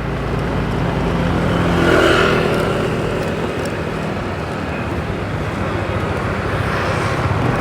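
Motorbike engine running at a steady pace while riding along a street, with road and traffic noise. The sound swells louder about two seconds in, then settles.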